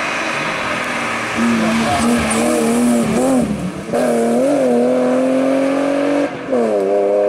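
A BMW E36 rally car's engine revving hard as the car drives past. The pitch wavers with the throttle, then is held steady at high revs. A brief break near the end is followed by a slightly lower pitch, as after a gear change.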